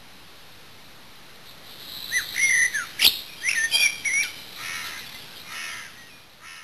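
Small birds calling out in the open: several quick sweeping chirps about two to four seconds in, then fainter trilling notes, over a steady hiss. A single sharp click about three seconds in.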